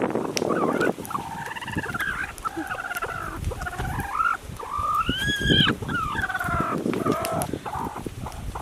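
Farm poultry calling repeatedly, a string of pitched, wavering calls one after another, over a low rumble of background noise.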